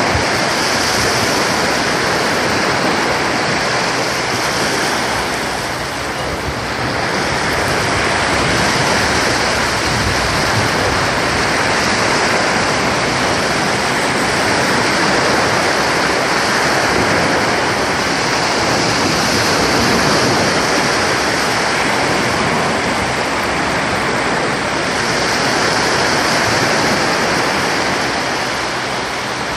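Sea surf washing onto a beach, a steady loud rush of breaking waves that swells and eases slowly.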